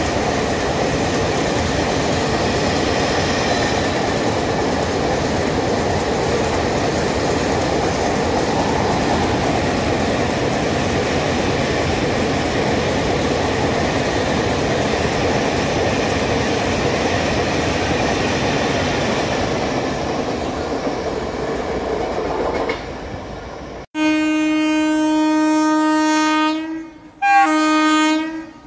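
A long rake of empty flat freight wagons rolls past, a steady rush of wheel-on-rail noise. Near the end the rolling noise cuts off and an Indian Railways electric locomotive's horn sounds one long blast, then a short one.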